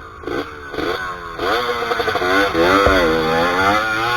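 Dirt bike engine revving hard with the throttle worked on and off: a few short blips, then from about a second and a half in, a sustained run of revs rising and falling again and again.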